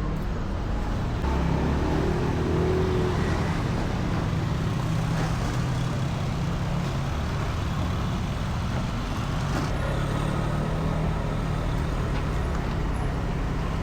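Road traffic: a vehicle engine running steadily close by, over a haze of road noise.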